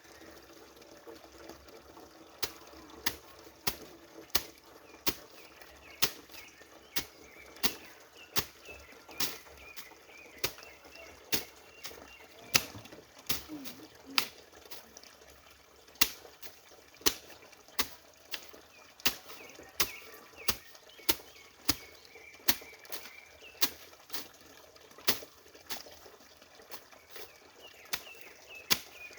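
Repeated sharp chopping strikes of a hand tool clearing vegetation, about one or two a second at an uneven pace.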